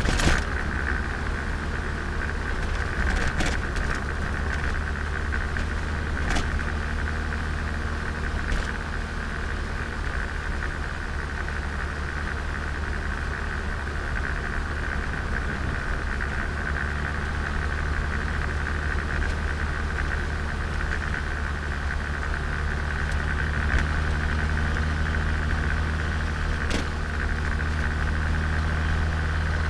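Turbocharged Nissan Micra engine running steadily under way, an engine being run in. A few short clicks sound over it.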